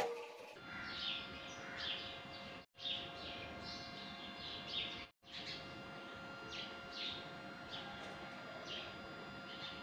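Small birds chirping: short, repeated falling chirps over a faint steady hum, cutting out briefly twice.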